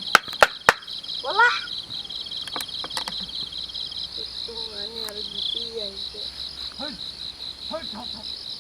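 Insects chirping in a steady, fast-pulsing chorus, with three sharp clicks just after the start and a loud rising call about a second and a half in. A short wavering voice-like sound comes midway, and brief rising calls come near the end.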